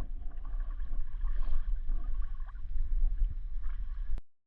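Water lapping and gurgling against a kayak hull, over a heavy low rumble on the microphone. It cuts off abruptly about four seconds in.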